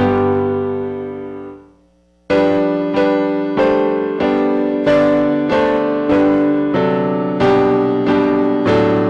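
Piano playing slow hymn chords, each struck and fading, about one and a half a second. The first chord dies away to a short silence about two seconds in, then the steady chording resumes.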